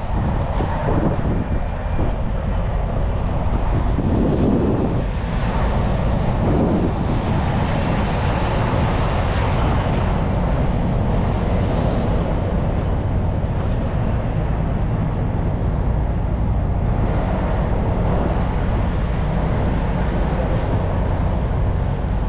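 Steady low rumble of a running vehicle engine with road and wind noise.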